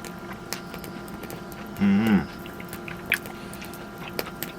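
Small clicks and taps of chopsticks and dishes at a meal, with chewing, over a steady faint hum. About two seconds in, a short voiced 'mm'-like sound is the loudest thing.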